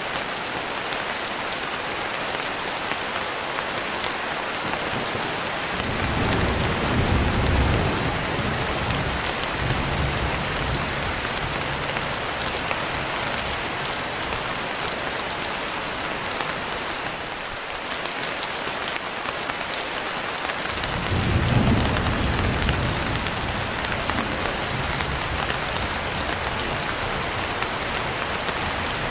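Steady heavy rain hissing, with two rolls of distant thunder rumbling low, one about six seconds in and another about twenty-one seconds in, each fading over several seconds.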